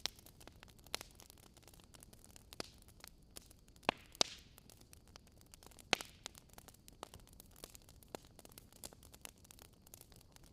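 Wood fire crackling: irregular sharp pops and snaps over a faint steady hiss, with a few louder pops around the middle.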